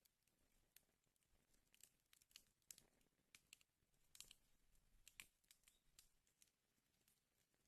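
Wood fire burning in a fireplace, faint, with irregular sharp crackles and pops from the burning logs, a few of them louder.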